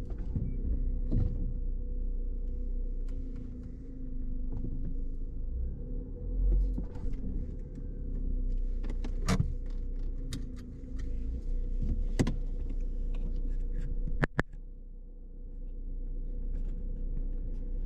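Inside a car: a steady low engine and road hum, with a few sharp clicks and knocks about halfway through and again near the end.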